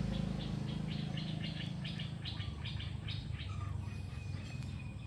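A small bird chirping in a quick series of short notes, about four a second, then holding a thin steady note near the end, over a low steady hum.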